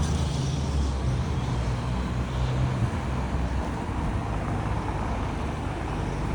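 Road traffic close by: a motor vehicle's engine running with a steady low rumble and road noise, easing a little about halfway through.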